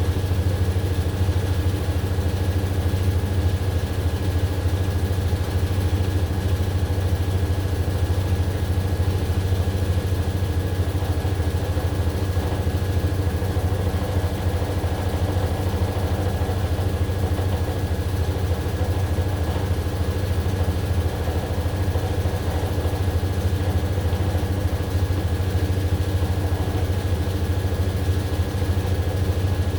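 AQUA AQW-DX12M front-loading drum washing machine running steadily mid-cycle: a constant deep motor and drum hum with a faint high whine held throughout.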